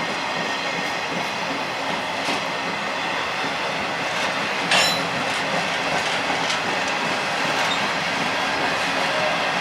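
Freight train cars rolling past with a steady rumble and clickety-clack of wheels on the rails, with a brief high-pitched wheel squeal about five seconds in as the wheels grind through the curve.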